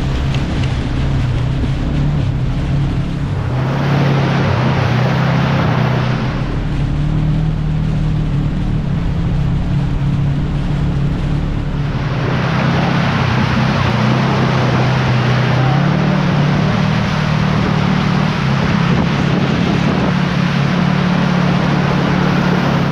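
Side-by-side UTV engine running steadily while driving. A rushing noise joins it from about four to six seconds in, and again from about halfway through.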